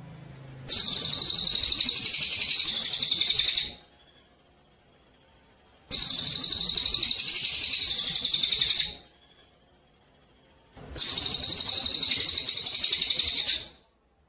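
A small songbird giving a fast, high-pitched trill in three bursts of about three seconds each, with pauses of about two seconds between them.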